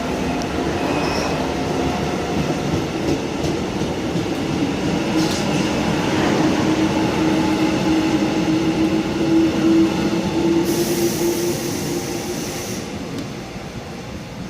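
Seoul Subway Line 1 electric commuter train running along the platform, a steady rumble and hum with some wheel squeal. It grows louder, then fades toward the end. About eleven seconds in there is a two-second hiss.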